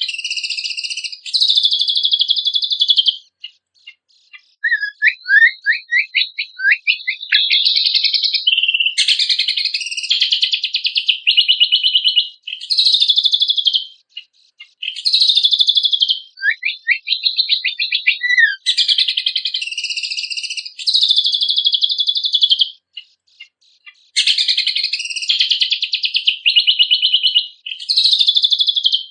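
Cucak kombok (kecial kombok) singing a loud, fast song. Bursts of rapid, rattling high trills are broken by short pauses, and twice by a run of quick down-slurred whistles.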